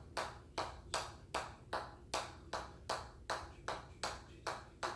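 A ball striking a hammer over and over in a steady rhythm, a sharp ping a little under three times a second.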